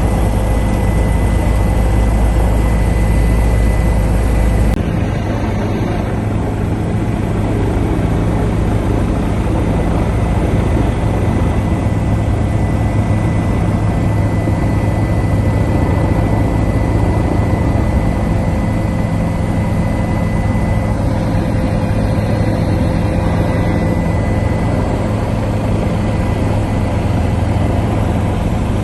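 Helicopter engine and rotor noise, a loud steady drone with a constant whine on top; the deepest rumble drops a little about five seconds in.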